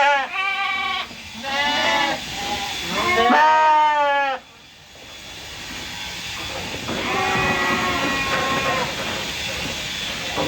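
Sheep bleating: a run of wavering calls in the first four seconds, the longest and loudest ending about four seconds in, then a fainter call about seven seconds in.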